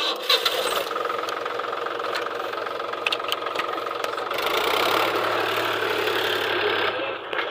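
Tractor diesel engine running steadily. It grows louder about four seconds in and eases back near the end.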